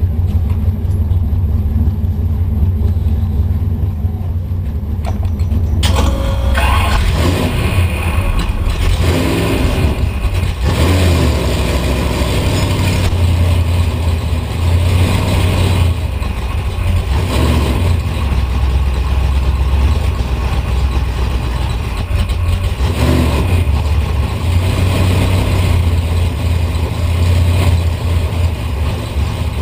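Drag-racing Chevy's engine running at a lumpy idle, heard from inside the car's cabin. About six seconds in it turns louder and fuller, with a few short bursts of throttle as the car rolls forward.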